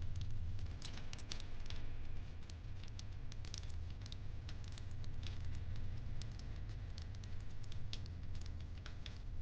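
Wood fire crackling, with irregular sharp pops and snaps scattered through, several a second, over a low steady rumble.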